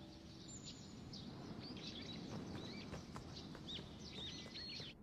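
Small birds chirping: many short, quick, rising and falling chirps and whistles in a dawn chorus over a faint low rumble of outdoor background noise.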